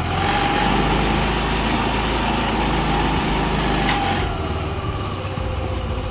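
Yamaha Ray ZR scooter's freshly rebuilt single-cylinder engine (new cylinder block and piston) running. It is revved up right at the start, held there for about four seconds, then drops back to idle.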